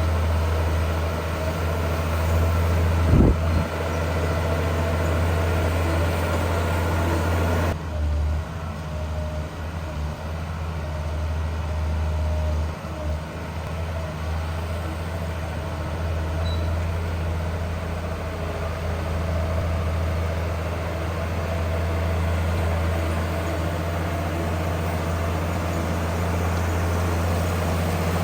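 Heavy diesel engine of earthmoving machinery running steadily with a deep drone, and a single brief knock about three seconds in.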